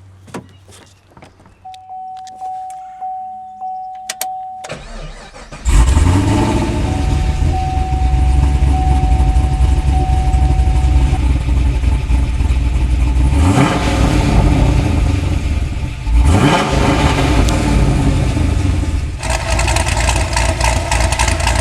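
Chevrolet Camaro's LS3 V8, fitted with a THR performance cam, CNC-ported heads, stainless headers and THR mufflers, starts suddenly and loudly about six seconds in, then runs at idle with two short rising revs later on. Before the start there are a few clicks and a repeating chime, which carries on into the first seconds of idle.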